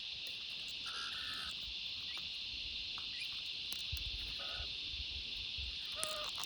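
A steady, high-pitched insect chorus, with a few short bird calls about one second in, at about four and a half seconds and near the end.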